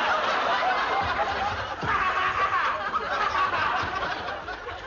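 Studio audience laughing, loud and sustained, dying down near the end.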